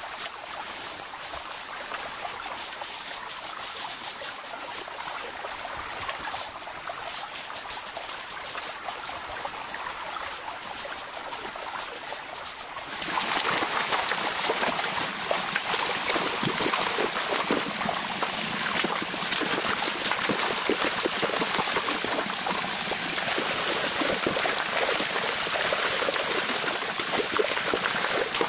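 Steady rush of water noise. About halfway through it jumps suddenly to a louder, fuller downpour-like rush, and a thin high steady tone heard over the first half drops out at the same moment.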